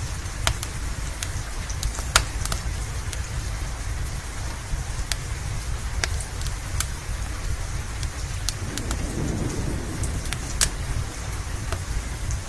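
Steady rain falling, with frequent sharp pops and crackles from a wood fire in a fireplace. A soft low swell rises and fades about nine seconds in.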